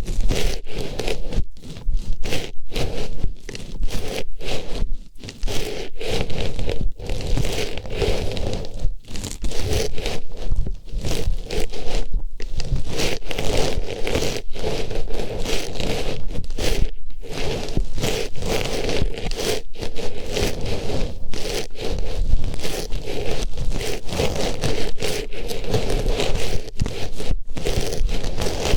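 An artificial flower pushed into and rubbed against a microphone's ear: close, loud rustling and scraping of its petals, broken by many brief pauses.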